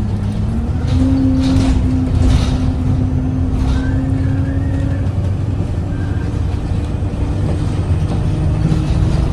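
Inside an Alexander Dennis Enviro 200 bus on the move: the Cummins ISBe diesel engine and drivetrain running with a low rumble and a steady whine that steps up slightly in pitch about halfway through. There are a few brief rattles in the first few seconds.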